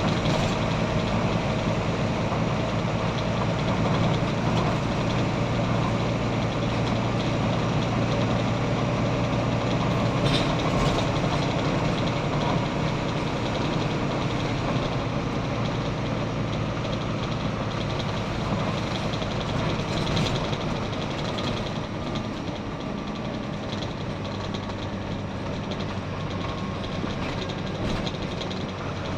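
Volvo B9TL double-decker bus's six-cylinder diesel engine running steadily with a constant low hum, plus a few faint clicks.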